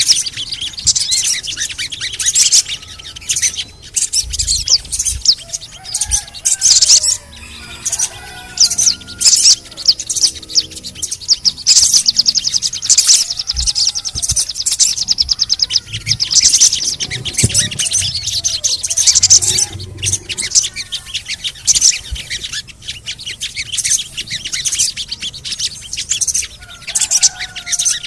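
Sogon birds calling in a lure recording: rapid, dense high chirps and trills that go on without a break, with a few lower whistled glides mixed in.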